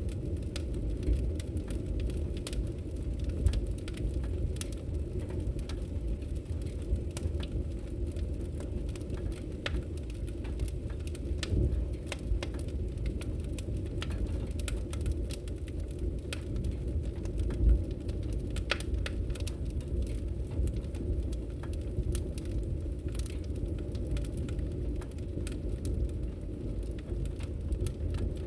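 Wood fire crackling in a fireplace: irregular small snaps and pops over a steady low rumble of flames, with a few louder pops.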